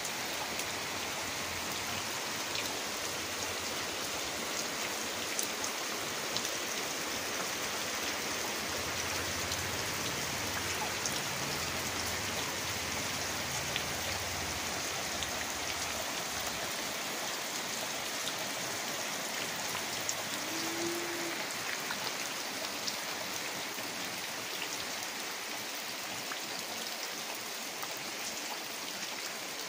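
Heavy rain falling steadily on a wet road and foliage, with scattered ticks of individual drops.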